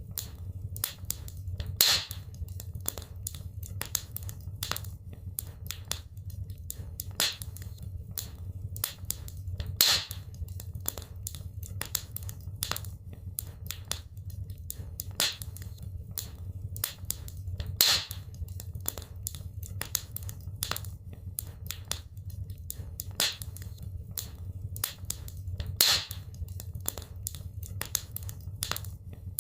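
Wood fire crackling in a fireplace: a constant scatter of small snaps with a louder pop about every eight seconds, over a steady low rumble of the burning.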